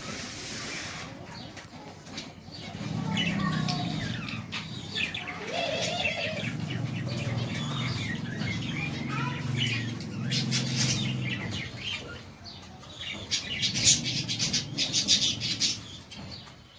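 Caged birds chirping while pigeons coo in low tones for several seconds, then a quick run of sharp, high chirps and rustles near the end.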